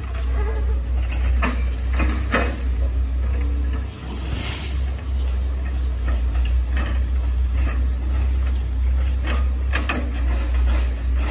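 Hitachi ZX110 MF excavator's diesel engine running steadily under work, with a few sharp knocks and cracks as the machine works, and a short hiss about four seconds in.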